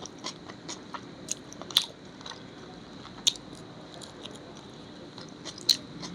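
Close-miked chewing of a mouthful of paneer: wet mouth clicks and smacks at an irregular pace, with sharper ones about two, three and six seconds in.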